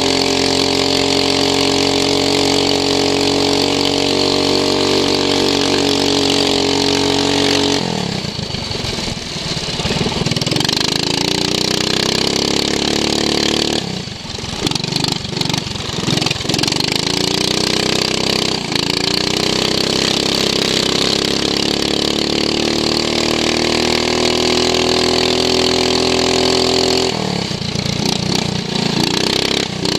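Racing lawn mower's engine running at high revs. The revs drop sharply about eight seconds in, fall and climb again a few times around the middle, rise back up to a steady high note, and drop once more near the end, as the driver lifts off for corners and accelerates out.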